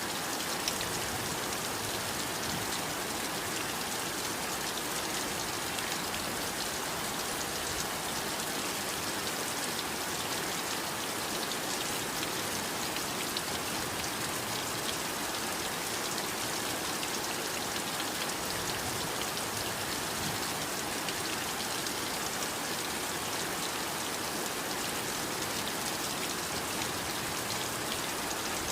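Heavy rain falling steadily, an even hiss of many small drop impacts with no change in strength.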